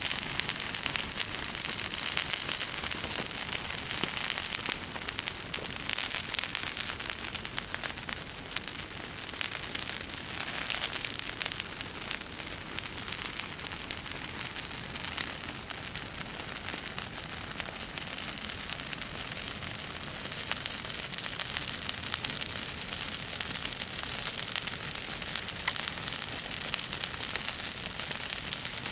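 Bonfire burning, a steady hiss of dense small crackles and pops, a little louder for the first few seconds.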